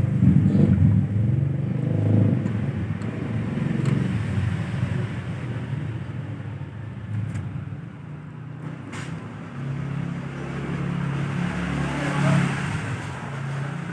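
A motor engine running steadily, loudest at first and fading away, with two short sharp clicks in the middle.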